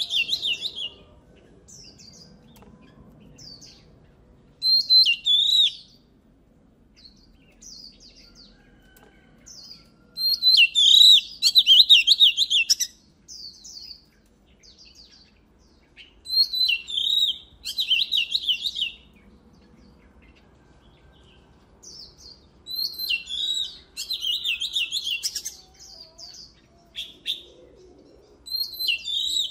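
Oriental magpie-robin singing: loud bursts of rapid, varied whistled phrases come every few seconds, with quieter scattered notes in between. The longest burst runs about three seconds, a little past a third of the way in.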